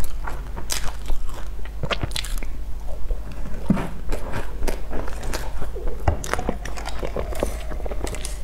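Close-up biting and chewing of crisp sesame-crusted pastries, with irregular crunches and crackles of the crust.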